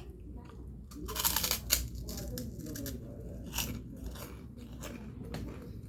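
Close-up chewing of crunchy food, with short crunchy clicks throughout and a loud crunching burst about a second in.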